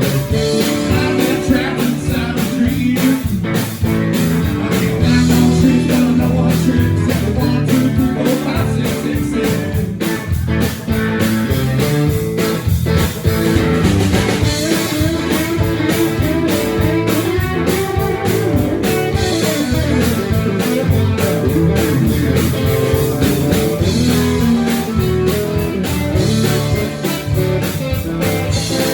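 Live blues-rock band playing, with guitar over a steady drum beat.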